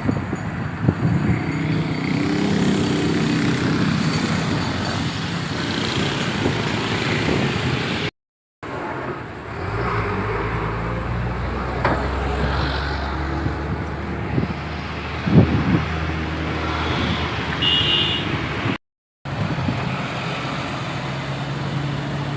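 Motorcycle engine running and road traffic noise during a ride, the engine pitch shifting as the bike speeds up and slows, cut off briefly twice. A short high-pitched beep sounds near the end.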